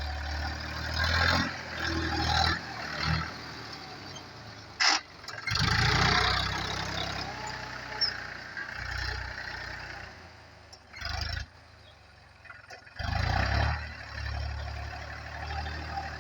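Tractor engine running under load while tilling soil. Its level rises and falls, with a few louder low surges.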